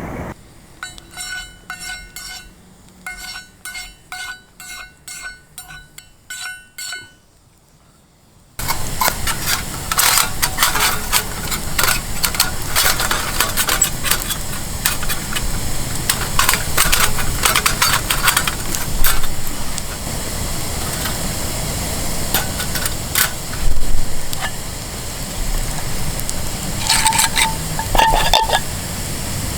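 For the first eight seconds, a quiet background with a series of short, evenly pitched chirping tones in quick groups. Then loud sizzling begins abruptly: meat frying on a thick iron griddle over a campfire, with frequent clicks and metal scrapes from turning the meat and a brief squeak near the end.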